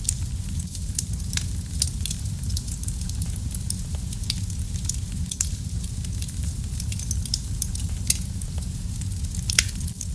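Wood fire burning in a fireplace: a steady low rumble of flames with frequent sharp crackles and pops, the loudest pops about eight and nine and a half seconds in.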